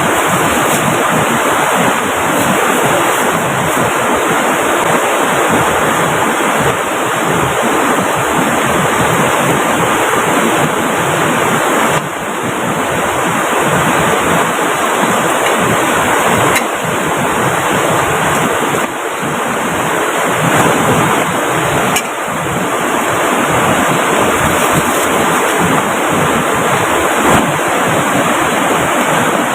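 Steady, dense rushing of heavy rain together with a river running close by.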